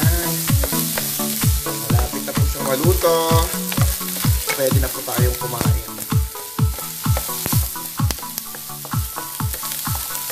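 Scrambled egg with vegetables sizzling in a frying pan while a wooden spatula stirs and scrapes it. Background music with a steady drum beat of about two beats a second plays over it.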